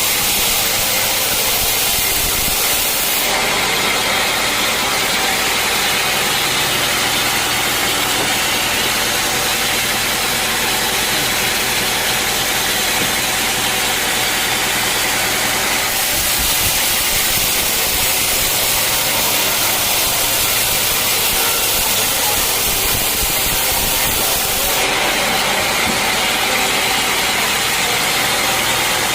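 Sawmill engine running steadily under a heavy hiss, its tone shifting abruptly a few times.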